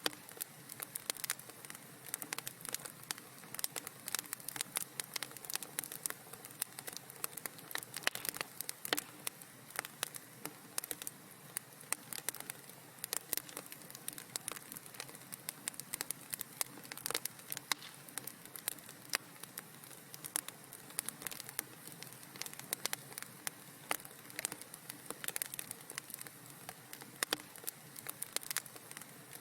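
Fireplace fire crackling: many irregular small pops and snaps over a soft steady hiss.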